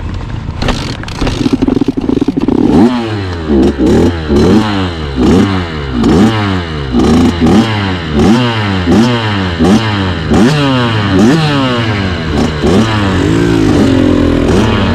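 Dirt bike engine revved over and over, its pitch climbing and dropping about one and a half times a second, with clattering knocks mixed in.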